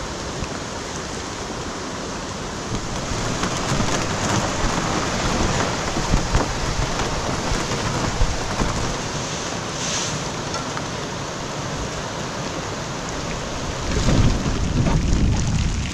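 Steady rush of water noise, the sound of river rapids running beside the portage. A low rumble comes in near the end.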